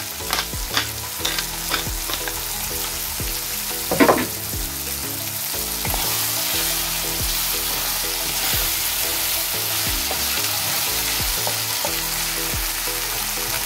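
Ground pork and clams sizzling in a nonstick frying pan while being stirred with a wooden spatula. A pepper grinder clicks several times in the first two seconds, and there is one louder knock about four seconds in.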